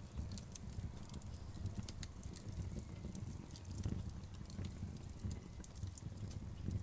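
Wood logs burning in a fireplace, crackling and popping in quick irregular snaps over a low steady rumble of flame.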